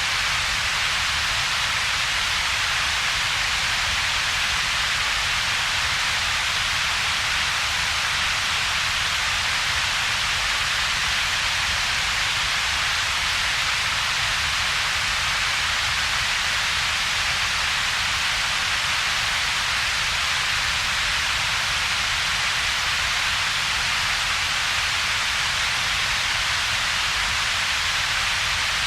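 Synthetic double-peaked noise: a steady, even hiss made of two bands, a low rumble at the bottom and a stronger, brighter hiss in the upper middle, with a hollow gap between them. It does not change at all.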